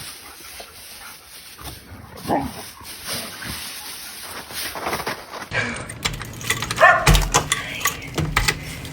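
A dog whining and barking in short calls, louder in the second half.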